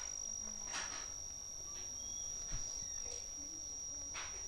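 A child chewing soft papaya with closed lips, picked up close by a clip-on mic, with a couple of soft wet mouth sounds. Under it is a constant thin, high-pitched whine.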